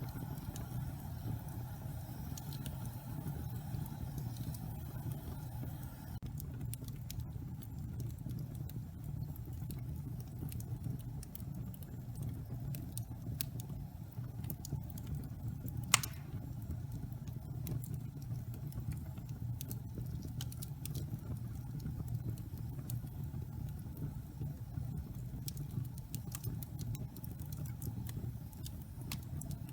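Wood fire burning in a fireplace: a steady low rumble with scattered crackles and snaps from the burning logs, and one loud pop about halfway through.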